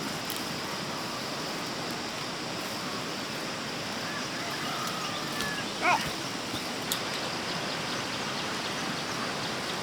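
Steady outdoor background noise, with a short high rising call about six seconds in and a faint click a second later.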